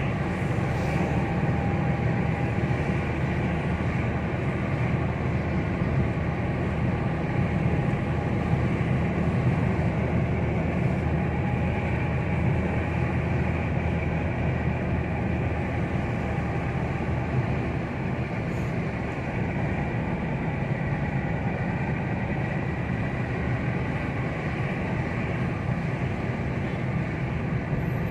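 Car driving at speed on an open road: steady engine and road rumble heard from inside the car, with no breaks or sudden sounds.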